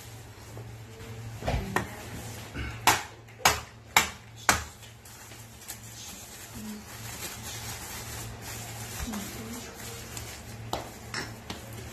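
Lumps of charcoal being knocked and broken up: four sharp clacks about half a second apart a few seconds in, with lighter knocks before and near the end.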